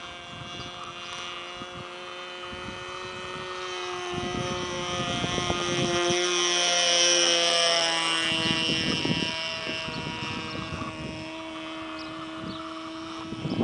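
Radio-controlled model plane's O.S. rotary (Wankel) glow engine running at steady flying throttle, its propeller drone growing louder as the plane passes about halfway through, then fading. Gusts of wind buffet the microphone throughout.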